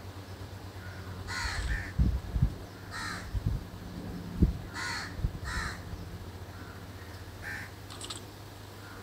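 About six short bird calls, spaced a second or more apart. Several sudden low thumps, louder than the calls, come in the first half, over a steady low hum.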